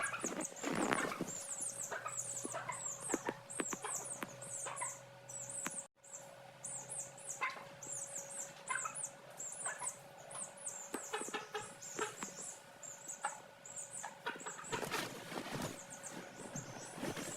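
Young chicks peeping continuously, a rapid stream of short high-pitched cheeps, with scattered light knocks and taps among them.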